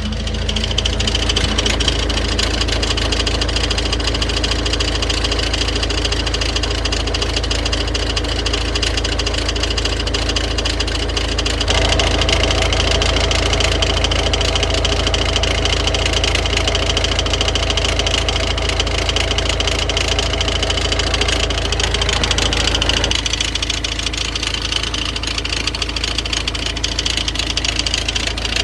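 Car engine idling with an abnormal rubbing noise from a damaged crankshaft pulley: its damper has failed, so the pulley's two parts rub against each other. The sound gets louder about twelve seconds in and eases back near the end.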